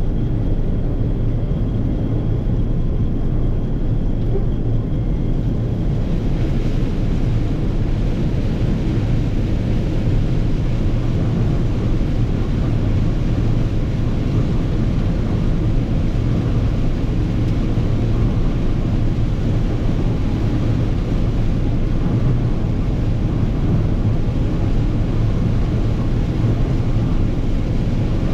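Massey Ferguson 9690 combine running steadily while shelling corn, a continuous low engine and threshing drone; about six seconds in, a higher rushing sound grows louder and stays.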